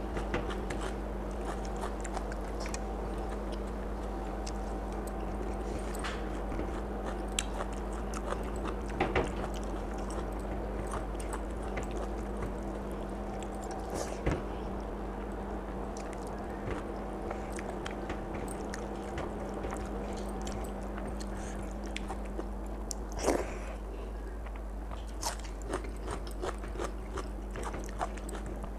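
A person eating rice and chicken feet curry by hand: chewing and biting with scattered sharp clicks and crunches, over a steady low hum.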